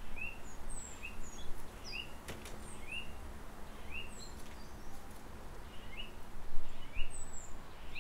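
Small birds chirping repeatedly, short quick calls about one or two a second, over a low rumbling background noise that swells briefly a few times.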